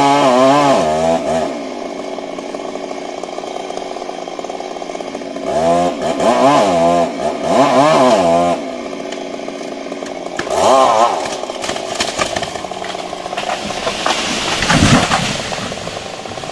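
Stihl MS 382 two-stroke chainsaw revving in several bursts, its pitch wavering, and dropping back to a steady idle between them. Near the end comes a clattering burst with a low thump.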